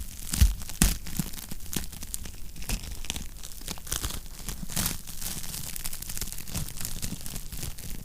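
Wood fire crackling in a fireplace: a steady run of small pops and snaps, with two louder pops within the first second.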